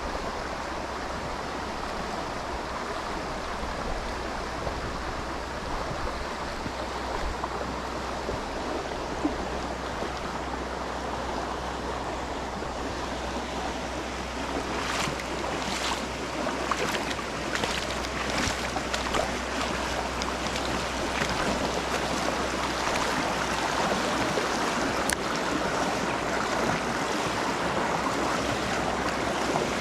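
Creek water rushing steadily, getting louder about halfway through, with a few brief sharper splashy sounds around the same point.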